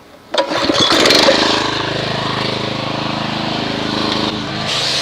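A pressure washer starts about half a second in and then runs steadily, a motor hum with a hiss over it. A short burst of hissing spray comes near the end.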